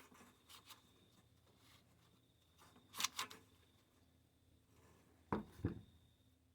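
Quiet handling of a lawn mower's recoil starter assembly: a few light clicks, a sharper double click about three seconds in, and two dull knocks near the end.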